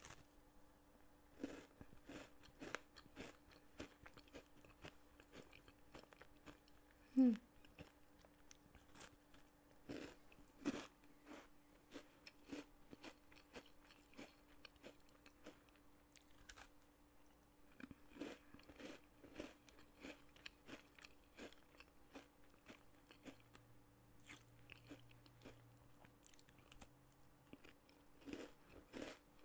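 A crunchy caramel biscuit (Verkade Meesterbaksels) being bitten and chewed close to the microphone: irregular crisp crunches the whole time, with one louder, brief sound falling in pitch about seven seconds in.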